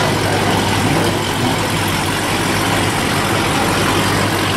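Car engine idling steadily: a constant low hum with no revving.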